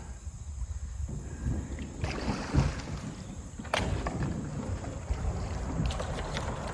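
A kayak being pulled by hand through shallow, rocky creek water, with low rumbling wind on the microphone and irregular knocks and scrapes. The sharpest knock comes a little under four seconds in.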